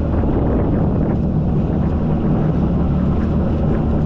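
Jet ski engine running at a steady pitch, with wind buffeting the microphone.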